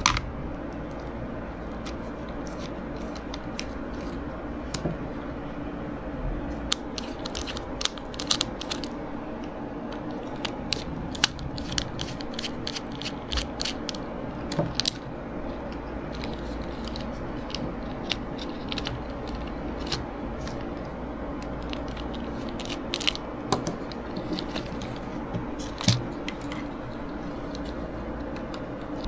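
Small sharp clicks, taps and scrapes of a hobby-grade RC gearbox's plastic and metal parts and small tools being handled during the service. They come in scattered clusters over a steady low hum.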